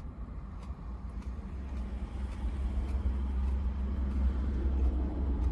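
Another car's engine rumbling as it pulls into a nearby parking space, growing louder over the last few seconds, heard from inside a parked car.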